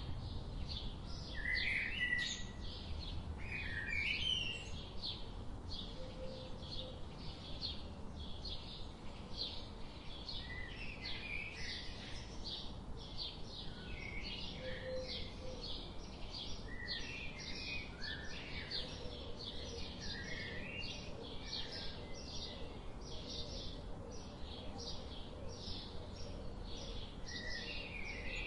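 Forest birds calling: an even, rapid series of short high chirps, about two or three a second, with scattered lower, gliding bird calls and a low steady rumble underneath.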